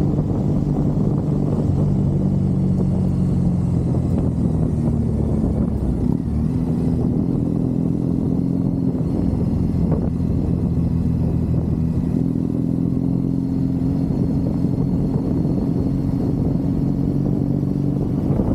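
Triumph Bonneville's parallel-twin engine running steadily under way on the road. The engine note steps up in pitch about six seconds in and then holds steady.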